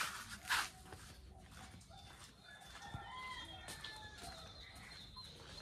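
Two short scuffs near the start, then a faint, drawn-out bird call with a gliding pitch through the second half.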